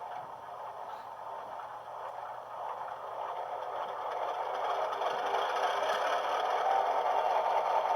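Diesel prime mover startup sound from an HO-scale E7 locomotive's SoundTraxx Econami DCC sound decoder, played through the model's small speaker, the engine sound growing steadily louder as it comes up to idle.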